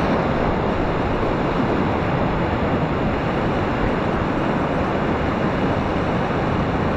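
River rapids rushing steadily: a loud, even roar of whitewater.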